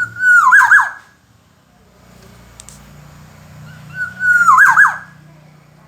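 Black-naped oriole (kepodang emas) singing two loud whistled phrases, one at the start and another about four seconds in; each is a held whistle that breaks into quick looping notes sliding down and up. A faint low hum runs underneath.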